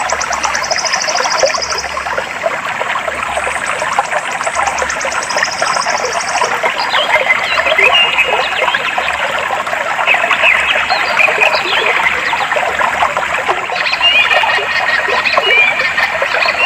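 Clear stream water flowing and babbling steadily, with birds calling over it: a fast high trill twice in the first six seconds, then short chirps from about seven seconds in.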